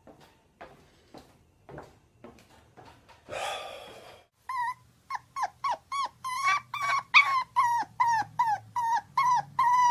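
A dog giving a rapid series of short, high yips, about two to three a second, starting about four and a half seconds in and growing louder. Before that come faint light clicks and a brief rough, noisy sound.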